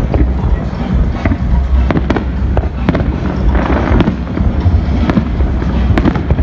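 Fireworks display: many sharp bangs and crackles in quick, irregular succession over a continuous low rumble.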